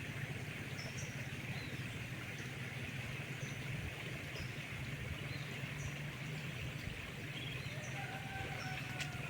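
Tropical rainforest ambience: a steady insect buzz with short high chirps repeating about once a second over a constant low hum. Near the end comes a single drawn-out whistled call, likely a bird.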